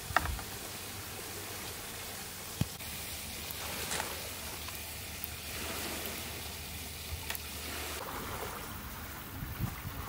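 Steady rushing outdoor noise with a few brief sharp clicks and knocks, and a soft shift in the background near the end.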